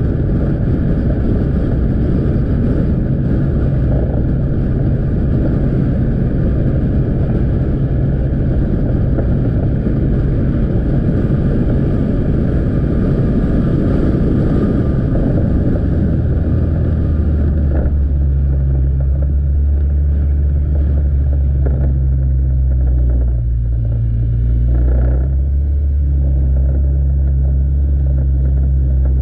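Motorcycle engine running under a heavy rush of wind and road noise on the camera microphone. About two-thirds through the rush eases and the engine's steady low hum comes to the front.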